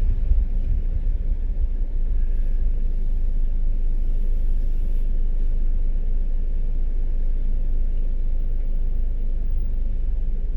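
Steady low rumble of a car driving along a road, with no distinct pitch changes.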